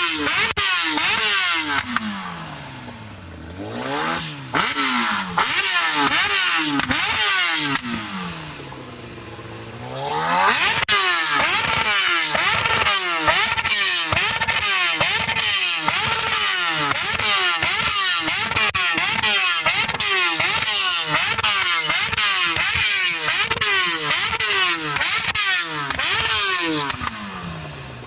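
Superbikes riding past one after another, engines revving, with many overlapping engine notes rising and falling. There are two quieter spells, a few seconds in and again about eight seconds in. After that comes a long, dense stream of bikes.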